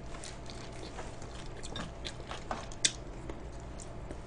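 A person chewing food close to the microphone: soft, irregular crunching and mouth clicks.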